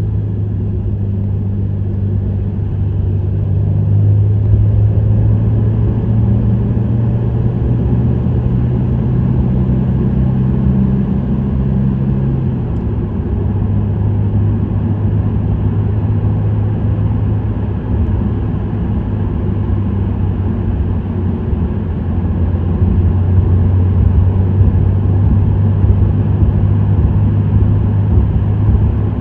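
Subaru WRX STI's turbocharged 2.0-litre flat-four, breathing through an STI Performance muffler, pulling steadily at expressway speed over road noise. Its note drops about halfway through, then climbs slowly again and grows louder near the end.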